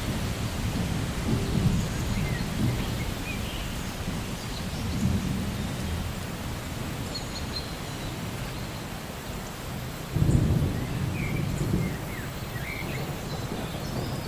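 Steady rain falling, with rolling thunder rumbling low under it. A louder rumble breaks in suddenly about ten seconds in.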